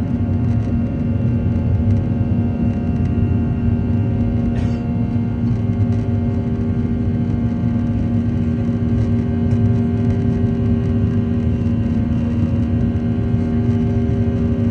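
Airliner's engines running steadily: a low rumble under a steady multi-tone hum that holds its pitch.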